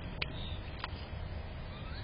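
Small birds at a feeder: a couple of sharp taps and a faint chirp over a steady low outdoor background noise.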